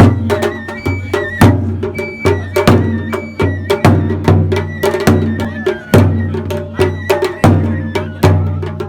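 Japanese festival music (matsuri-bayashi): a taiko drum struck in a steady beat, with quicker wooden clicks and strokes between the beats and a high melody of held notes over them.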